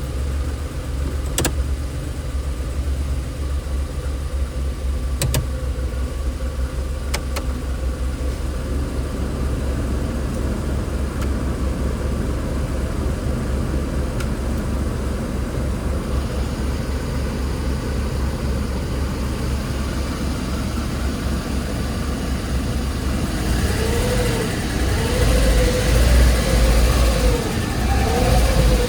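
A VW Polo 9N's engine idling steadily, with a few sharp clicks in the first several seconds. Near the end it is revved briefly several times, the pitch rising and falling with each rev.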